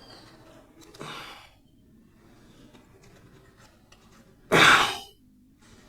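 A person's loud sigh, a forceful exhale about half a second long near the end, with a softer breath about a second in.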